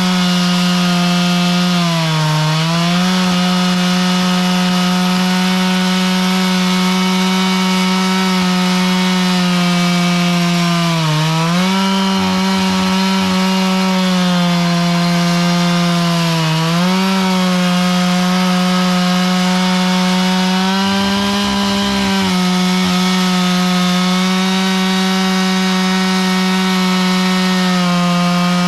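Chainsaw engine held at full throttle while its chain mills lengthwise through a log. The pitch sags briefly three times as the cut loads the saw, then recovers.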